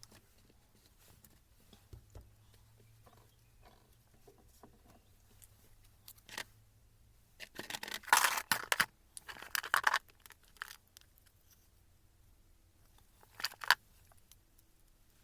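Short bursts of scraping and rustling handling noise, strongest about eight to ten seconds in, with a brief burst again near the end.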